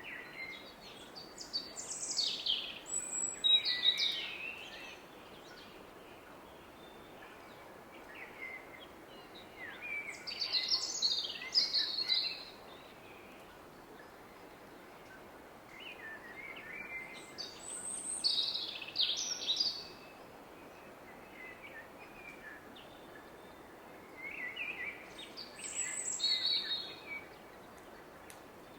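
A songbird singing busy, twittering phrases of two to four seconds, four times, about every eight seconds, over the steady roar of a distant river.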